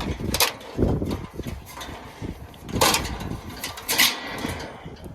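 Three sharp clicks and knocks of parts and tools being handled during work on a condenser unit's wiring, over a low wind rumble on the microphone.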